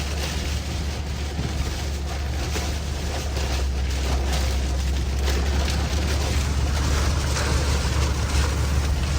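Steady road rumble and wind noise inside a moving vehicle: a constant deep hum with a hiss over it.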